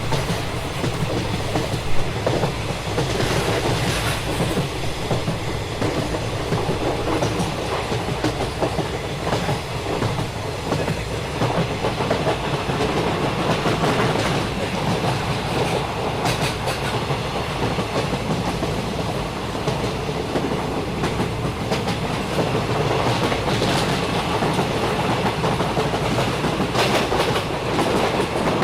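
A train running on the rails: a steady rumble with scattered clicks of the wheels over the rail joints.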